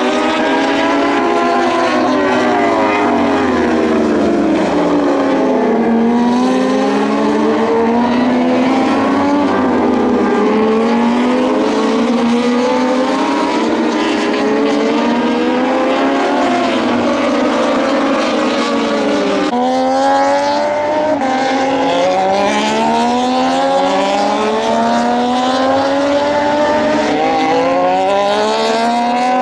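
Several Moto2 racing motorcycles with Triumph 765 cc three-cylinder engines passing at race speed, their pitch climbing and dropping through gear changes as one bike overlaps the next.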